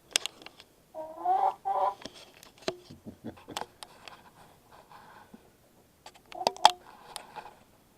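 Hens clucking in short pitched calls, a group about a second in and another just after six seconds in, with scattered sharp clicks and knocks between.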